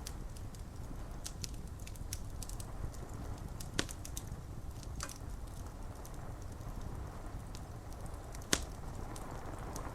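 Wood fire crackling with scattered small snaps and two louder pops, over a steady low rush of rain.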